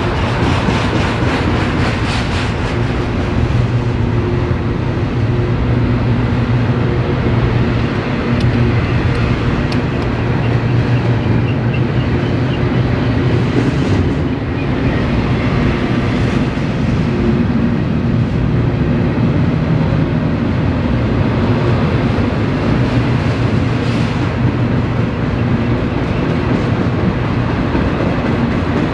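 Freight train rolling past: a loud, steady rumble and rattle of its cars on the rails, with a low drone underneath.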